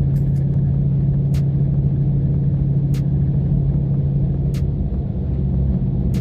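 Car driving on the highway: a steady engine and road drone, with a light tick about every second and a half.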